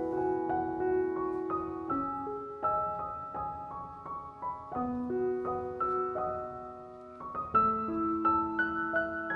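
Background music: a slow, gentle piano piece playing single notes and chords.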